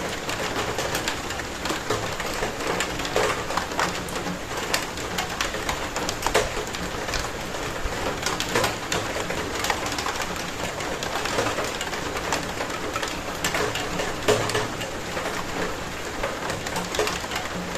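Steady rainfall, with a dense patter and many individual heavy drops and drips striking a hard surface.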